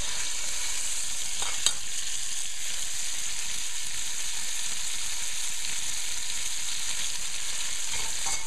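Shrimp with chopped onion, garlic, peppers and cilantro sizzling steadily in hot oil in a steel pan, with one sharp click about one and a half seconds in.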